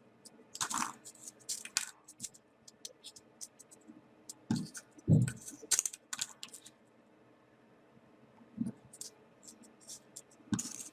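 Small folded paper origami pieces being handled and pushed together: irregular light rustles and clicks of paper, with a few soft knocks.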